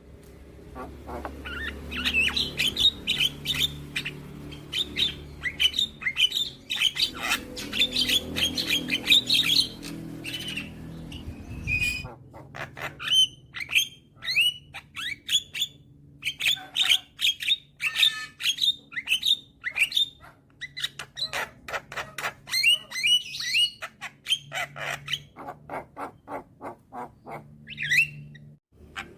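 Young Javan myna singing in full voice: fast runs of sharp chattering notes, squawks and whistles, broken by short pauses.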